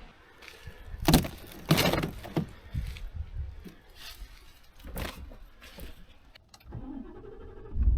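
A series of about seven sharp clicks and knocks, irregularly spaced, of objects being handled and set down, followed near the end by a faint low hum.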